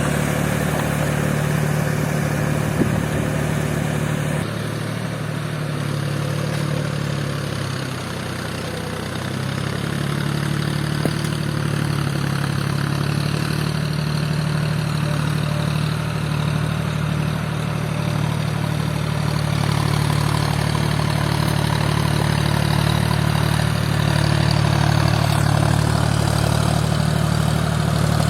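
John Deere 5050D tractor's three-cylinder diesel engine running steadily, easing off and dropping in pitch about four seconds in, then picking back up about ten seconds in.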